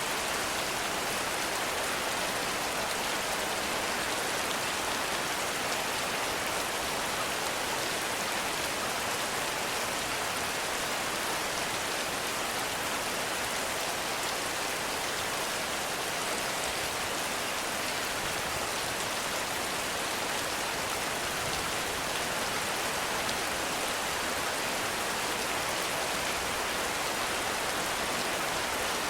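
Heavy rain falling steadily in a forest, an even hiss of countless drops with no let-up.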